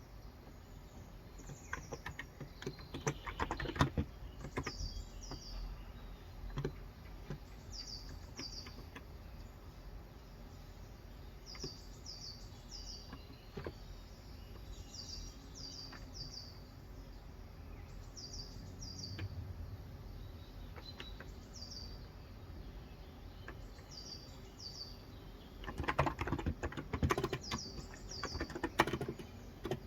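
Typing on a COX Endeavour 35 g electro-capacitive tenkeyless keyboard, in a burst of keystrokes about two to four seconds in and again near the end. A bird chirps short high notes in twos and threes throughout.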